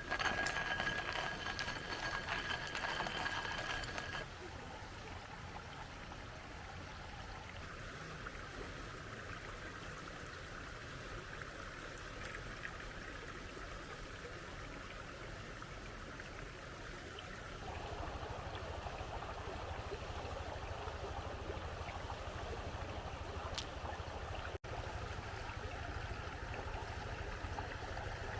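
River water flowing, a steady rush that becomes louder and fuller about two-thirds of the way through. For the first four seconds a high, steady whistle-like tone sits over it.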